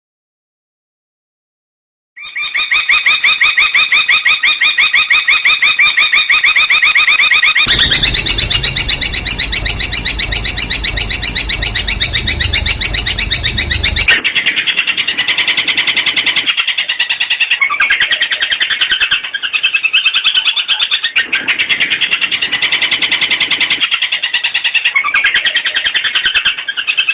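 Long-tailed shrike (cendet) song: fast, densely repeated chattering notes, starting after about two seconds of silence. A harsher, fuller stretch runs from about 8 to 14 seconds, then the rapid runs go on with short breaks.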